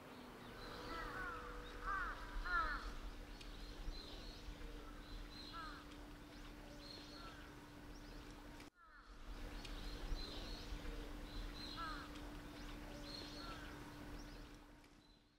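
Birds chirping in short, repeated calls over a faint, steady low hum. The sound cuts out for an instant a little past halfway, resumes, and fades away at the end.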